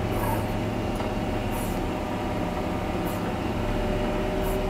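John Deere 670G motor grader's diesel engine running steadily, heard from inside the cab, with a steady whine over the low drone and a few faint ticks.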